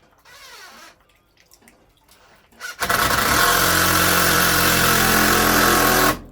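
A motor starts abruptly, runs loud and steady at an even pitch for about three seconds, then cuts off.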